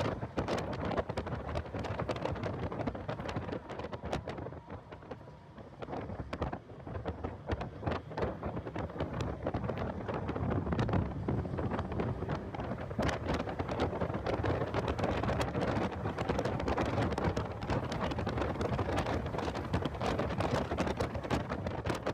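Heavy wind buffeting on the microphone of a car being driven at speed on track, crackling and rushing over the car's own sound. It eases briefly about five seconds in.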